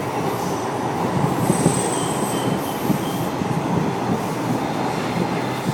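PATH train car running on the rails: a steady rumble, with faint high wheel squeal between about one and a half and three seconds in.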